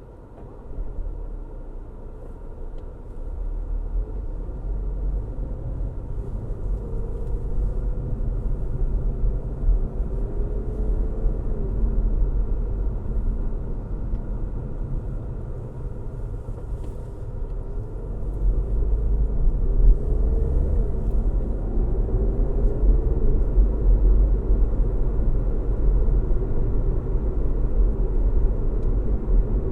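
Car driving on a road: a steady low rumble of road and engine noise that grows louder about a second in and again around eighteen seconds. A few faint rising whines sound above the rumble.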